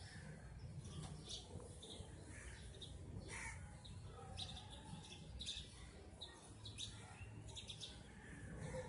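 Faint bird chirps, short and scattered, several a second, over a low steady background hum.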